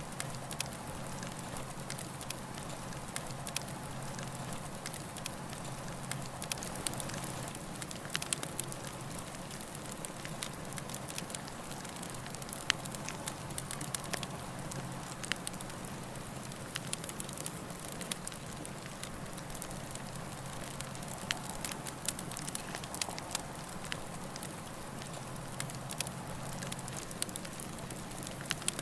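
Campfire burning steadily, with frequent sharp crackles and pops over a soft continuous rush of flames.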